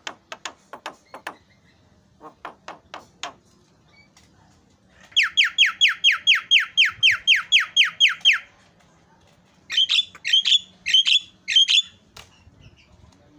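Javan myna calling: a run of quick clicks, then a fast series of about seventeen downward-sliding whistles, then four harsh squawks near the end.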